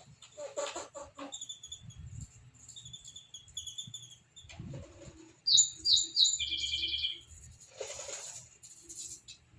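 Small birds chirping, with a quick run of sharp, falling chirps about halfway through and a few short rustling bursts near the start and near the end.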